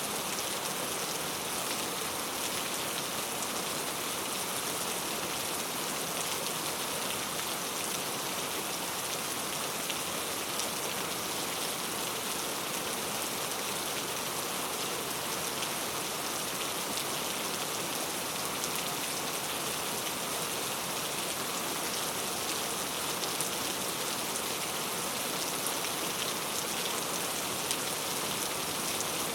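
Steady rain falling, an even hiss of many drops striking a surface with fine scattered patters.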